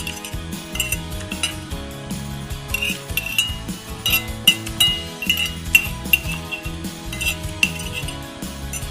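A metal spoon clinking and scraping against a plate as a meal is eaten, many short irregular clinks.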